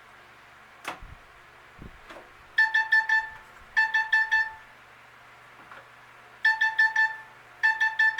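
A telephone ringing with a trilling double ring: two short rings, a pause, then two more, beginning about two and a half seconds in. Two soft knocks come before it.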